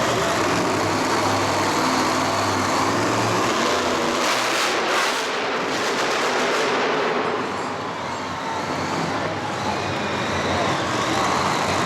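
Loud vehicle engine running over a steady wash of arena noise; its low note fades about three and a half seconds in, followed by a brief hissing burst.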